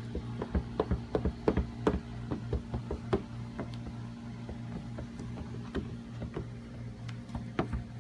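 Irregular short clicks and taps, many in the first few seconds and then sparser, from paint protection film being lifted and worked by hand on a car hood, over a steady low hum.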